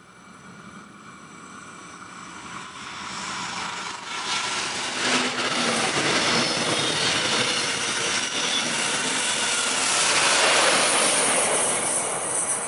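A double-deck regional passenger train passing at speed, with a steady rush of wheels and air. It grows from faint to loud over the first few seconds, is loudest shortly before the end, then starts to fade.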